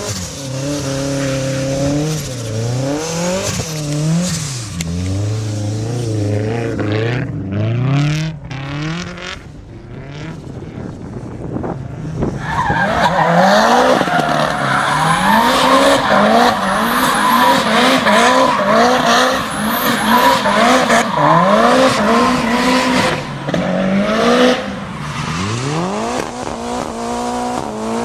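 Mitsubishi Lancer Evolution's turbocharged four-cylinder engine revved hard again and again in quick rises and falls while the car drifts and spins donuts, with tyre squeal. About halfway through it gets louder, with the revs bouncing up and down in rapid blips.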